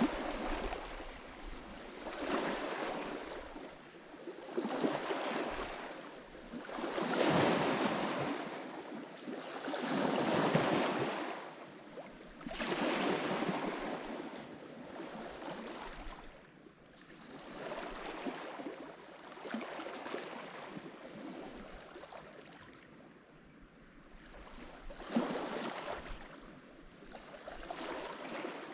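Lake Michigan waves breaking on the shore, one rush of water after another every few seconds, each swelling and fading away; the strongest come in the first half.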